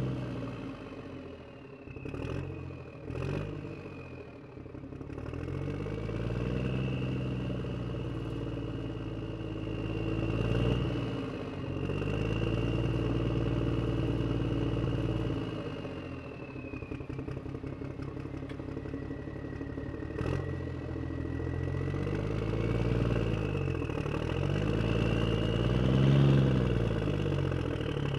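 Toy tractor engine sound revving up and down again and again, over a thin high whine that shifts in pitch, with a few sharp clacks in the first few seconds and one more about two-thirds of the way through.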